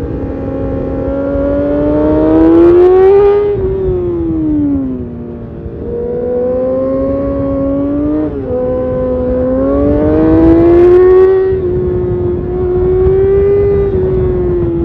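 2012 Kawasaki Ninja ZX6R's inline-four engine through an Arrow titanium race exhaust, revving up under acceleration and easing off twice. About eight seconds in the pitch drops and climbs again at a gear change. Steady wind and road noise runs underneath.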